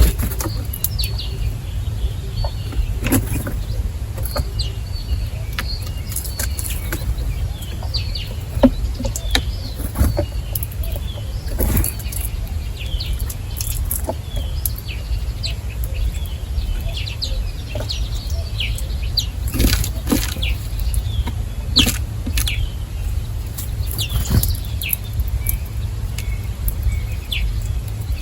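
Small wild birds chirping with short, scattered calls, among a few sharp clicks, over a steady low rumble.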